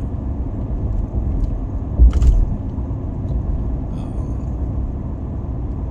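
Truck driving, heard from inside the cab: a steady low road rumble with a single short thump about two seconds in.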